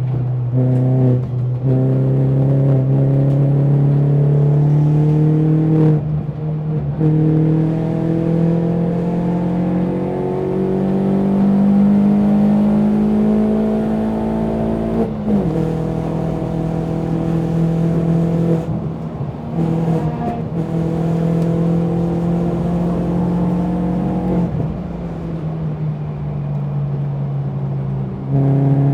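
BMW 116i race car's four-cylinder engine pulling hard on track: the engine note climbs slowly under acceleration, then drops sharply several times at gear changes and braking for corners.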